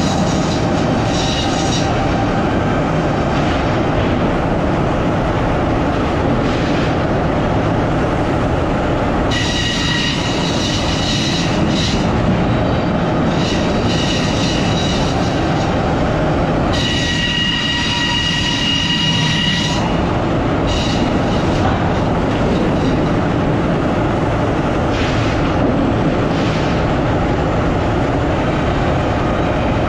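Sawmill saw and machinery running loud and steady, with a high-pitched whine of the blade in the cut that comes and goes in stretches of a few seconds, strongest about two thirds of the way through.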